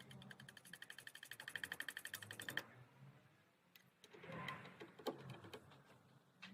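Faint, rapid mechanical clicking, about a dozen even clicks a second for some two and a half seconds, then stopping; a few scattered clicks and soft rustling follow.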